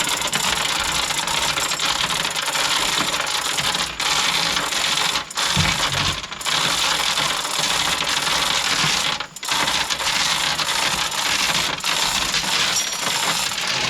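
Continuous metallic rattling and clattering from the engine hoist as the boat's MerCruiser engine is lifted out, with a few brief pauses.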